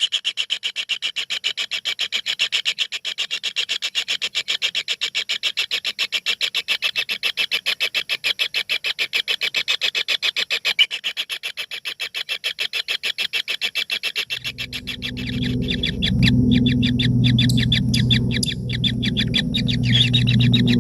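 Nestling birds in a nest hole giving a rapid, continuous run of begging calls, about ten pulses a second. A low steady hum joins about two-thirds of the way through.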